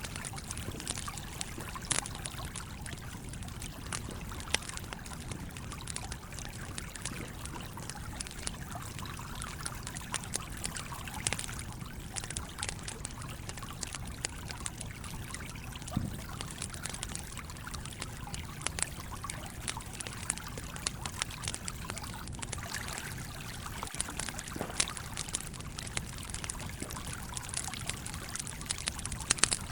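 Campfire crackling with irregular sharp pops, over the steady flow of a stream.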